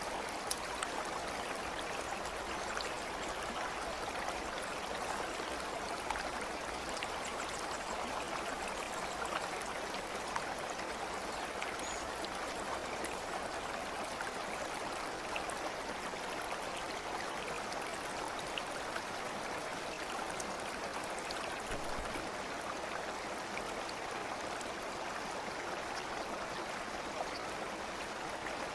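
Steady flowing stream: continuous babbling water with faint scattered ticks of small splashes.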